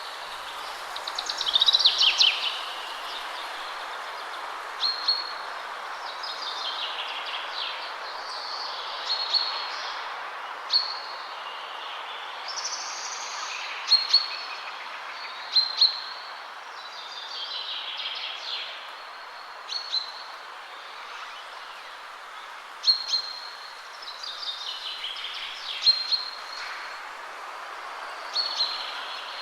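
Songbirds singing over a steady rush of wind through trees. Short, clipped notes and falling trilled phrases repeat every few seconds.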